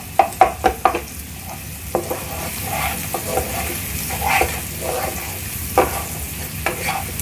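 Egg scrambling with onion and garlic, sizzling in hot oil in a non-stick pan while a wooden spatula stirs it, knocking and scraping against the pan. Several quick knocks come in the first second, then slower scraping strokes.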